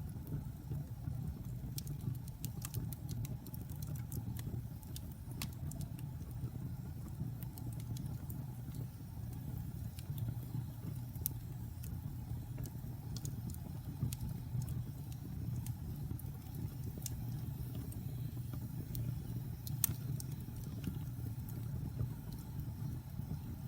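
Wood fire burning in a fireplace: a steady low rumble of flames with scattered sharp crackles and pops throughout, one louder pop near the end.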